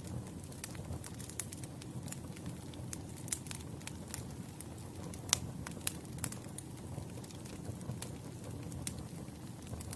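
Wood fire burning steadily with a low rumble and many sharp, irregular crackles and pops, the loudest pop a little over five seconds in.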